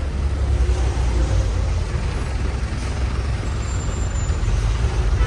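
A bus on the move, heard from inside: a steady low engine rumble with road noise.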